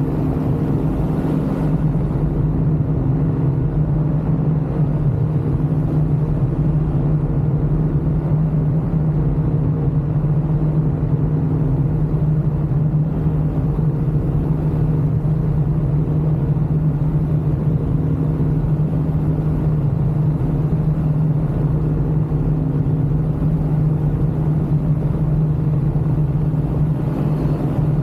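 Ultralight aircraft engine running steadily in flight, a constant-pitch drone with a low rumble that holds an even level throughout.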